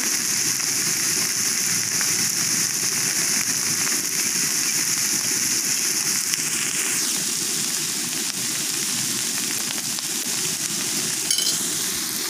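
Shredded papaya flowers and salted fish stir-frying in a wok with a steady sizzle, a metal spoon turning them at the start. The high hiss of the frying eases a little about halfway through, and there is a brief click near the end.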